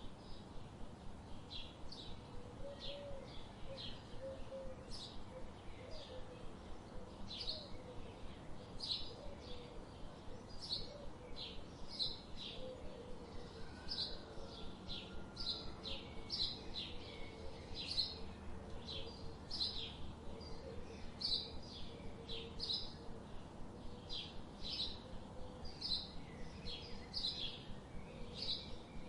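Birds chirping: short, high chirps repeating about twice a second.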